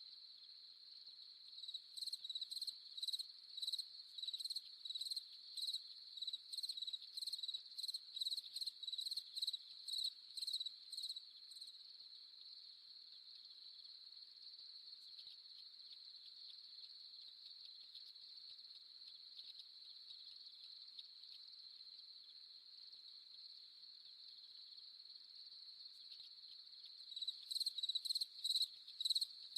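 Crickets at night: a steady high trill throughout, with a nearer cricket chirping about twice a second in a run from about two to twelve seconds in, starting again near the end.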